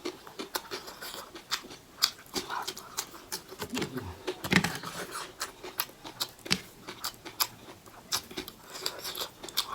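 Close-miked mukbang eating: chewing, lip smacks and sticky wet mouth clicks, many sharp crackles in quick succession. A brief low throaty sound that drops in pitch comes about halfway through.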